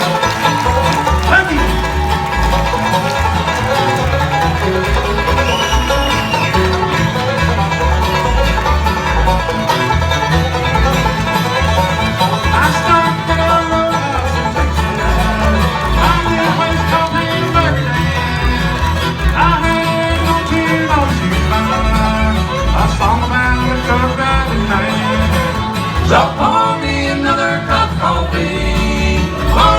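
Live bluegrass band playing an instrumental break: banjo, guitar and fiddle over an even, pulsing bass line.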